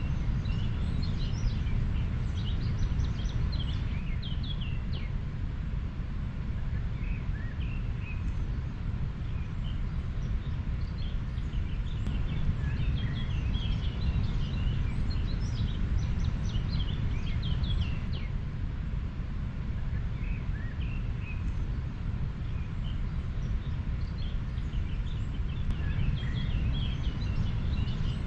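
River water flowing as a steady low rumble, with many small birds chirping in short high calls throughout.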